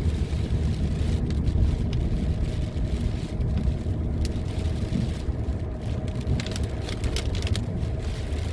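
Steady low rumble of road and engine noise inside a moving car's cabin, with a few faint clicks in the second half.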